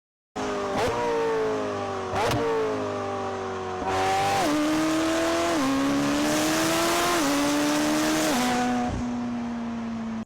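A high-revving performance engine's exhaust, its pitch dropping in sharp steps about four times, like gear changes. Two sharp pops come in the first few seconds, and a rushing noise builds through the middle. The sound cuts in just after the start and cuts off at the end.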